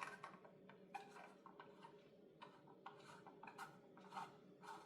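Faint, irregular clicks and rubbing of small plastic parts being handled and fitted, as LED tubes are put into an imitation Nixie clock.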